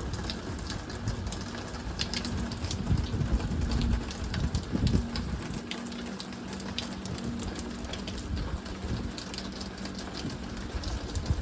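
Water spattering and splashing with many small crackles, over a faint steady low hum.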